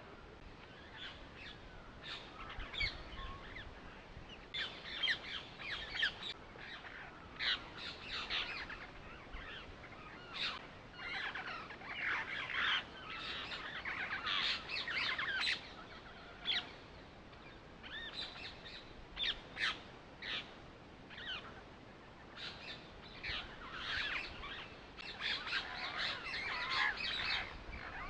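Birds calling: many short, high chirps and calls coming in clusters every second or two.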